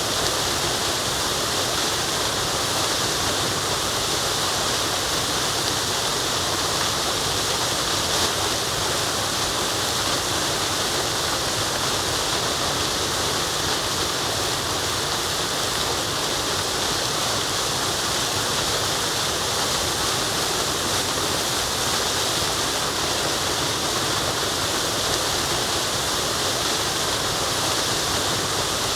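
Waterfall: a steady, unbroken rush of falling and running water, strongest in the hiss.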